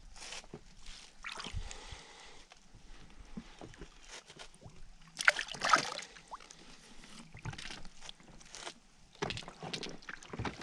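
Water splashing and sloshing around a small rowing boat, in irregular splashes. The loudest comes about five seconds in, with more near the end.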